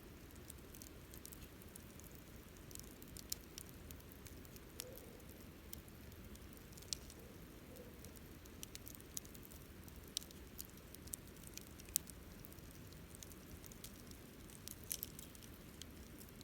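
Wood fire burning, with irregular sharp crackles and pops over a faint low hiss; the loudest pop comes about three-quarters of the way through.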